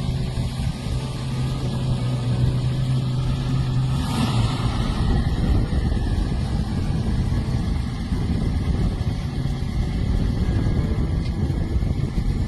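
The 1929 Roosevelt's Marmon-built straight-eight engine running, first steady at idle. About four seconds in it revs up and runs on with a rougher, slightly louder note.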